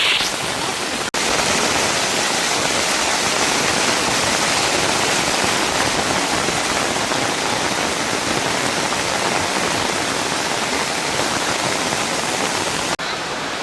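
Steady hiss of heavy rushing water, broken by short cuts about a second in and near the end.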